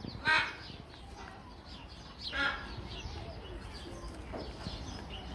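Parrot squawking twice, briefly, about a third of a second in and again near the middle, with softer chirps between.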